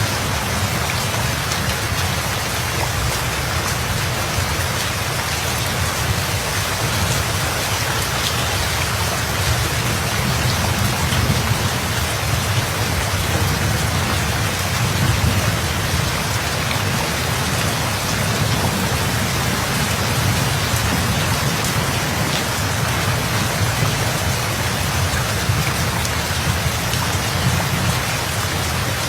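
Steady, heavy rain falling, with a low rumble of distant thunder that swells around the middle.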